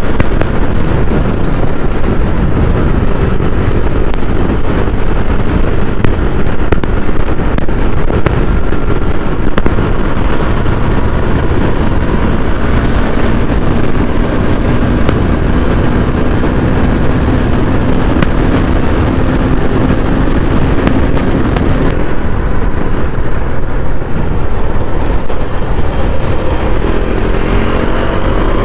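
KTM Duke 390's single-cylinder engine running at speed under a heavy rush of wind on the microphone. The engine pitch climbs near the end as the bike accelerates.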